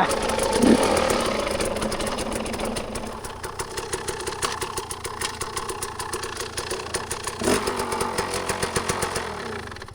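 Dirt bike engine running while riding, with the throttle varying: it eases off about three seconds in and picks up again near the end, then cuts away sharply at the very end.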